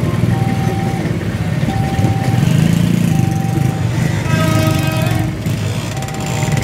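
Passenger train coaches rumbling past on the rails. A level-crossing warning alarm sounds a single steady tone in pulses about one every 1.4 seconds. A brief horn-like tone joins about four and a half seconds in.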